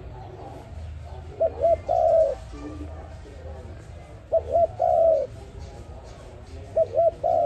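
A dove cooing: three calls, each two short quick notes followed by one longer drawn-out coo, repeated about every two and a half seconds.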